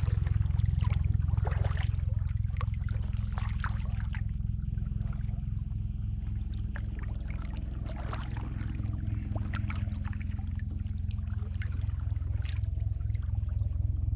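Water splashing and dripping from a kayak paddle in irregular, scattered strokes, over a steady low rumble.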